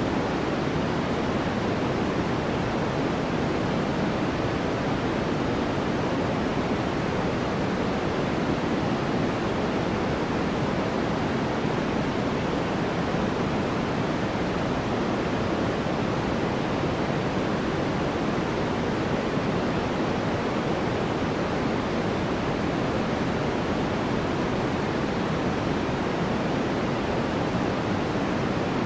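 Steady sleep-aid white noise: an even, unchanging hiss, fuller in the lower range than a thin high hiss.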